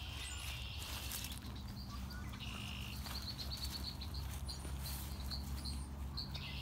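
A bird chirping in a quick series of short high notes over a steady low rumble.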